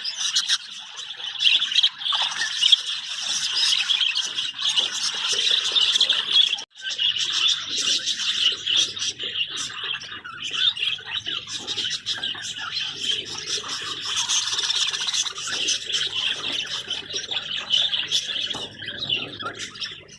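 Budgerigars chattering and squawking continuously, many birds at once, with a brief break about a third of the way in.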